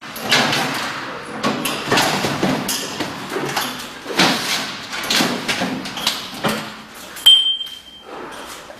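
Irregular metal clanks and knocks, several a second, from a sheet-metal machine that forms solar water heater inner tanks without welding. About seven seconds in, a sharp clank is followed by a short ringing tone.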